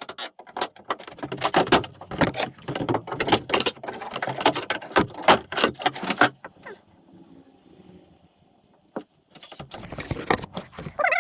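Rapid clattering and knocking of building materials being pulled apart and handled in demolition work. The knocks come thick for about six seconds, ease into a short lull, then pick up again near the end.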